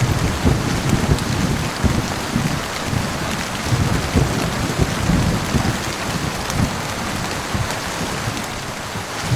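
Heavy rain falling steadily, with a continuous low rumble of rolling thunder that eases a little near the end.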